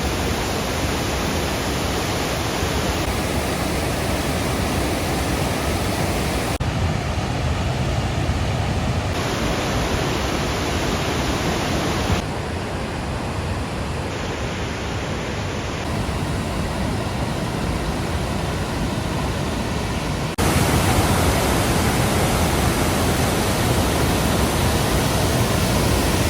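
Rushing water of a waterfall and its cascades, a loud steady roar of noise. Its level and tone jump abruptly several times as the clips change.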